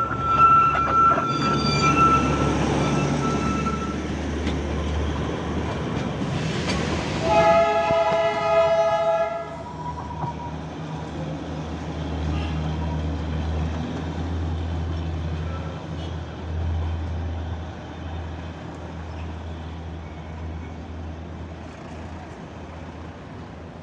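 Darjeeling Himalayan Railway diesel locomotive 'Sherpa' running with a steady low engine hum and a thin high squeal at first. Partway through comes a short hiss, then a horn blast of about two seconds. The engine sound then fades away slowly.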